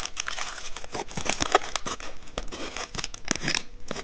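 Candy wrapper being torn open and crinkled, a continuous run of irregular crackles and rustles.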